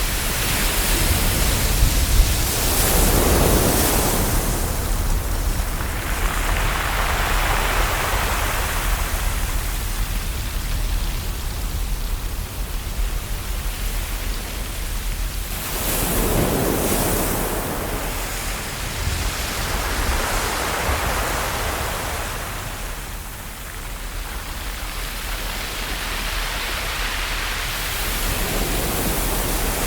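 Ocean waves washing onto a shore: a steady surf hiss with a low rumble underneath, swelling and easing every few seconds as waves break and wash back.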